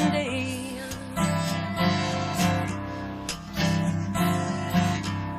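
Live acoustic guitar playing sustained chords in an instrumental gap between sung lines.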